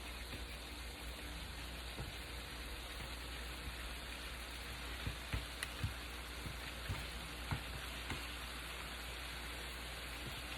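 Chicken-thigh skewers sizzling on a grill, a steady hiss with a few sharp pops and crackles around the middle.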